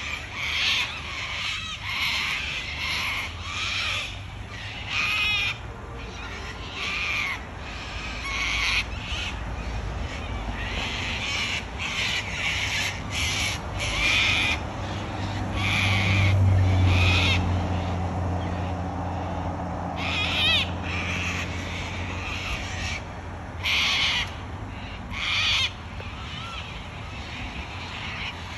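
A flock of wild cockatoos screeching, harsh calls coming every second or so and often overlapping. A low rumble swells and fades in the middle.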